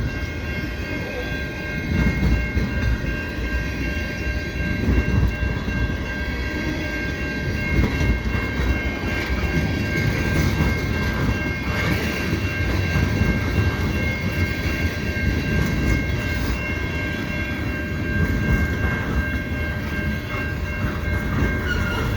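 Freight cars of a long, slow train rolling past: a steady rumble and clatter of steel wheels on rail, with a steady high ringing tone above it.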